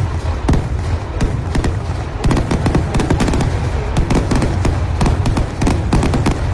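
Kerala temple-festival fireworks (vedikkettu): a rapid, continuous string of loud firecracker bangs, many a second, growing denser about two seconds in.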